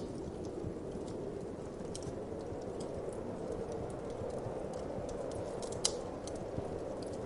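Wood fire crackling with scattered sharp pops, one louder pop about six seconds in, over a steady low whoosh of wind.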